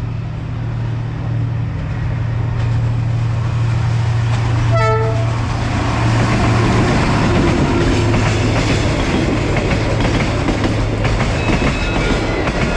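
Diesel-hauled passenger train approaching and passing at speed: a steady low engine hum grows louder, a short horn blast sounds about five seconds in, then the carriages rush past with wheels clattering on the rails.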